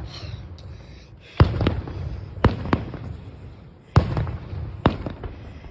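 Fireworks going off: four loud sharp bangs about a second apart, each with a low rumbling tail, mixed with smaller pops.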